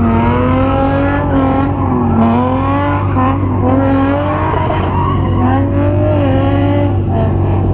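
Car engine held at high revs, the pitch rising and falling as the throttle is worked, with tires squealing as the car drifts.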